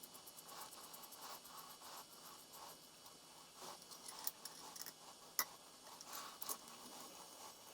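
Faint workshop handling sounds: light scraping and rubbing with a quick run of fine ticks at the start, then a few sharp clicks, the loudest about five and a half seconds in.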